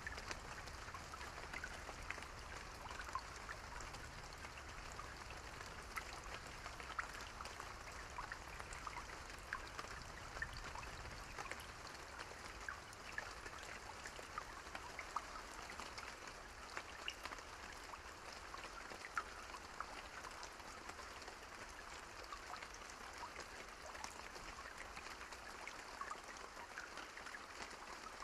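Steady rain falling, with many individual drops heard as small scattered ticks over an even wash of noise. A low rumble underneath dies away about halfway through.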